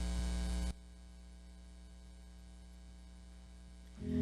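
Steady electrical mains hum that cuts off suddenly under a second in, leaving only faint low hum. Soft instrumental music begins near the end.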